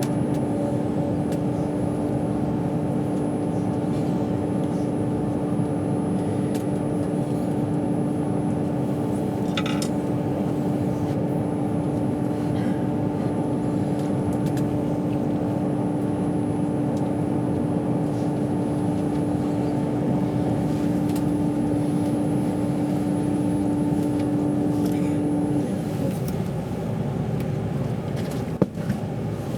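Steady running rumble of a moving passenger train heard from inside the carriage, with a constant hum that stops a few seconds before the end and a single sharp click near the end.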